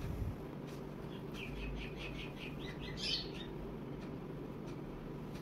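A bird chirping in the background: a quick run of about ten short, high chirps, then one louder chirp about three seconds in, over a steady low background noise.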